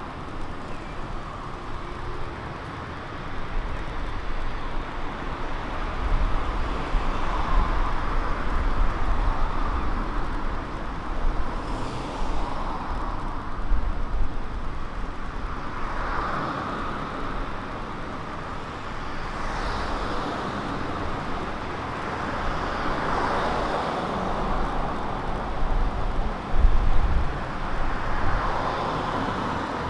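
Road traffic on a city street: several cars pass one after another, each swelling and fading, over a low engine rumble.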